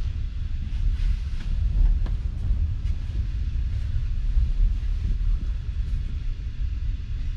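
Passenger train running along the track, a steady low rumble heard inside the carriage, with a few faint clicks from the running gear.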